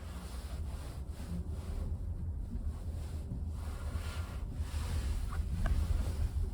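Low rumble of road and tyre noise heard inside a moving car's cabin, growing a little louder toward the end.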